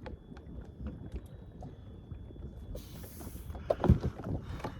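Wind buffeting the microphone over water sounds at a jet ski, with a brief hissing splash about three seconds in and a few heavy thumps just after, as a freshly landed red drum thrashes.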